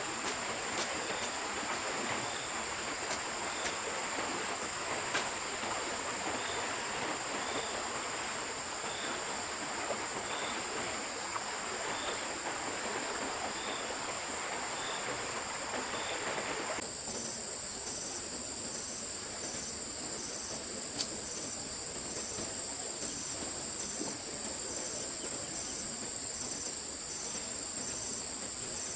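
A stream running, with insects keeping up a steady high-pitched drone. About two-thirds of the way through, the water noise cuts off suddenly, leaving the insect drone and a regular chirping about twice a second.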